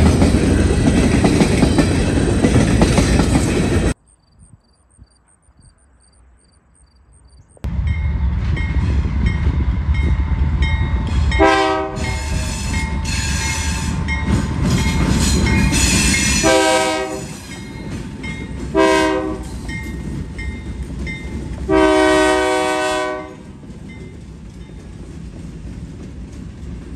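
Freight cars rolling past with wheels clacking over the rail joints, cut off suddenly about four seconds in. After a few seconds of near quiet, a diesel freight train comes in, its locomotives running, and the lead locomotive's multi-chime air horn sounds four blasts, the last and longest ending a few seconds before the locomotives pass.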